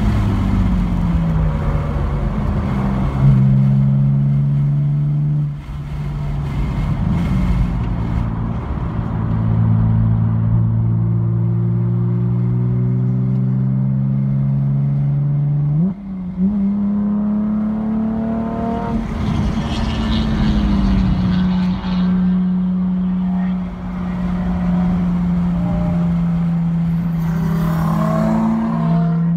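Car engine heard from inside the cabin during hard track driving. The engine note falls as the car slows from high speed, jumps up sharply about halfway through at a gear change, then holds steady and rises again near the end.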